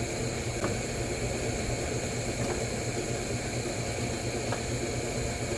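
Steady low mechanical hum, with three faint light clicks about two seconds apart.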